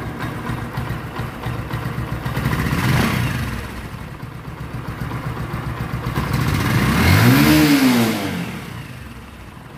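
Bajaj Discover 125 single-cylinder four-stroke motorcycle engine idling and revved twice: a swell about three seconds in and a longer rev near the end, rising and falling in pitch. It is running just after a valve-train repair with its original cam rockers refitted, and the mechanic judges the sound beyond perfect.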